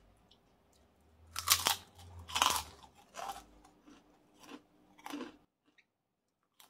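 Close mouth sounds of a person eating rice by hand: a few crunchy chewing bites, the two loudest a second or two in, then softer ones tailing off.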